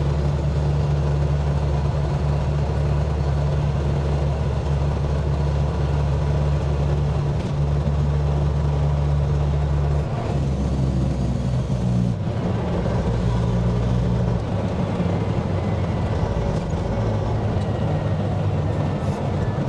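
Dump truck's diesel engine heard from inside the cab while driving, with a steady low drone whose note changes about ten seconds in. The cab noise is louder than usual: it sounds as if a passenger door were missing, which the driver puts down to insulation left out after the body work.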